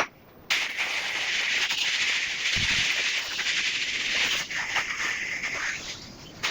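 Water spraying from a hose nozzle onto a window: a steady hiss that starts abruptly about half a second in and dips briefly near the end.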